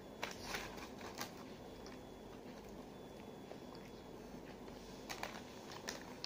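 Close-miked eating mouth sounds: wet smacks and clicks of chewing and finger-licking, in short clusters about half a second in, around one second, and again near five and six seconds, over a steady low hiss.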